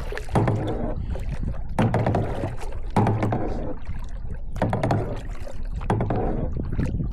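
Kayak paddle strokes in the water, a swishing splash about every second and a half, five strokes in all.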